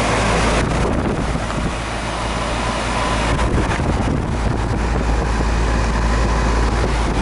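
Outdoor air-conditioning condensing unit running steadily, a low hum under a broad fan rush, with wind buffeting the microphone.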